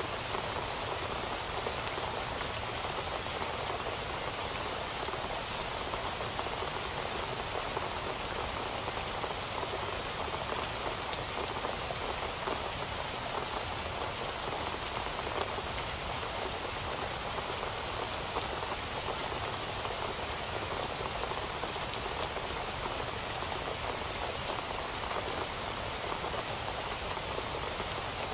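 Steady rain falling on a surface, an even hiss with fine drop ticks and no thunder.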